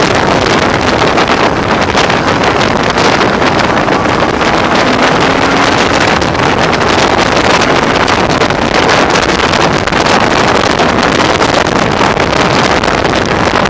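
Heavy, steady wind noise buffeting the microphone while a BMW R1100R is ridden at road speed, with its flat-twin engine mostly drowned beneath it. The rider puts the bad wind noise down to the screen.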